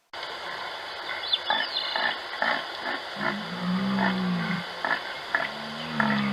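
An animal making two low, drawn-out calls, each about a second and a half long, over a run of short sharp sounds about twice a second and a steady outdoor background.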